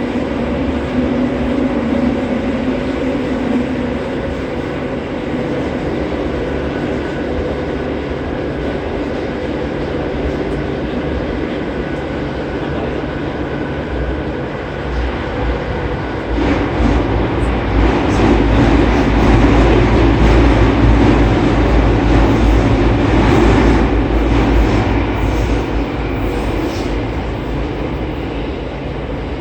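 Running noise of a JR East E231 series 800-subseries commuter train, heard from inside the car in a subway tunnel: a steady rumble of wheels on rail. It swells louder about halfway through for several seconds, then eases off near the end.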